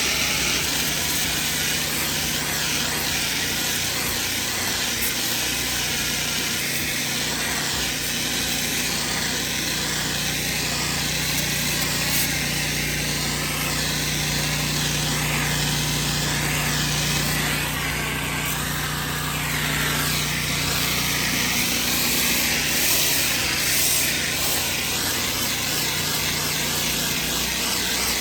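Pressure washer running steadily, its engine humming under the continuous hiss of the high-pressure water spray.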